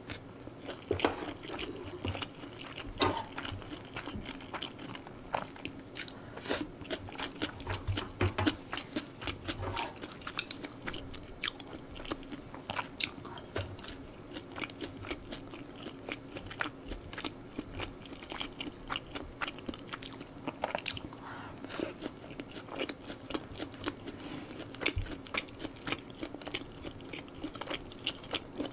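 Close-miked chewing and mouth sounds of someone eating spicy stir-fried pork and rice: a steady run of wet smacks and many short sharp clicks.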